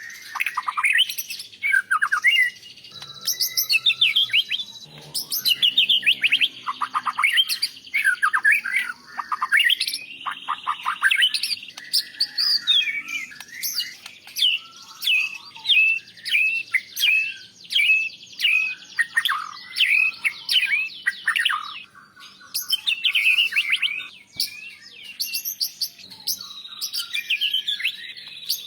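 White-rumped shama (murai batu) singing a long, varied song of rapid whistles and chips, with many quick downward-sweeping notes in close succession.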